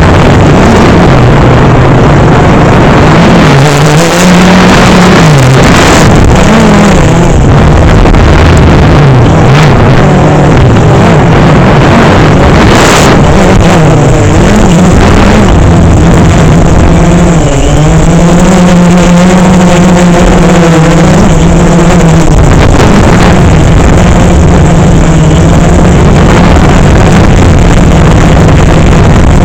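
DJI Phantom 3 quadcopter's motors and propellers buzzing loudly. The pitch wavers up and down as the motor speeds change, dipping and climbing back a little past halfway.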